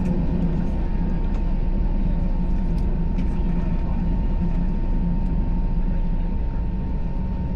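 Steady low drone of a vehicle engine with a thin, steady high whine over it and a few faint clicks.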